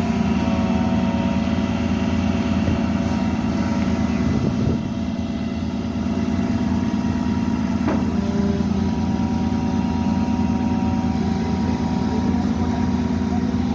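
A vehicle engine idling steadily close by, with two brief knocks partway through.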